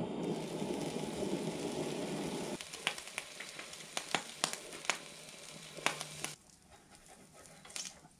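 Egg and bacon sizzling on a barbecue hotplate, with a metal spatula clicking and scraping against the plate several times midway. A low rushing noise covers the first couple of seconds and then stops, and near the end the sizzle fades.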